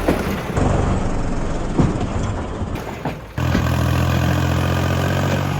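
Diesel tractor engines running, in short edited clips that cut abruptly twice; a steady engine note holds through the second half.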